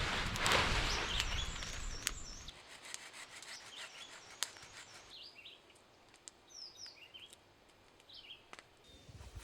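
Small birds chirping in short, quick high calls, with loud rustling noise over the first couple of seconds and a few sharp clicks.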